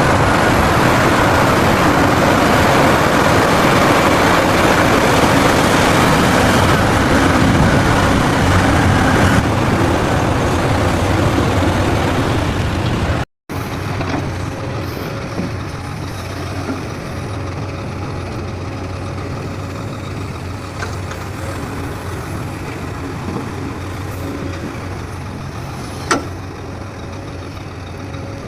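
Heavy diesel engines running: a loud, dense engine noise for the first half, then a sudden cut to a quieter, steady engine hum, with a single sharp click near the end.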